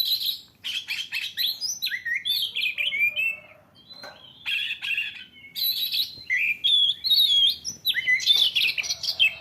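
Recorded birdsong from a bird video for cats, playing through a phone's speaker: rapid chirps and trills, with a brief lull about four seconds in.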